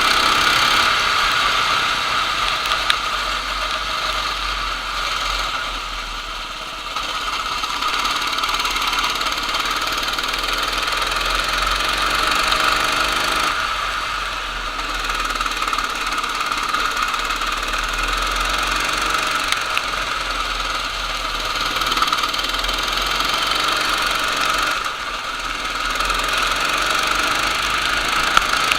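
Kart engine running hard at racing speed, easing off and picking up again a few times.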